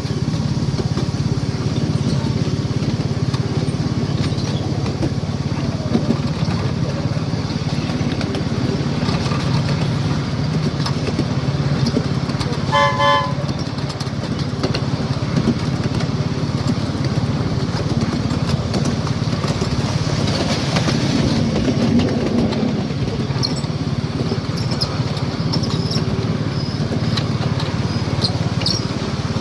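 Miniature railway locomotive running with a steady low hum as the train travels along. About 13 seconds in, the train gives a short toot of its whistle.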